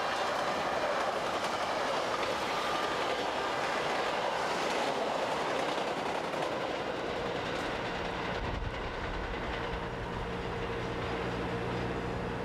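Metra bilevel commuter train passing close by, a steady rumble of wheels on rail with clickety-clack over the joints. The rumble eases a little about halfway through as the last cars go by, and a low steady hum carries on underneath.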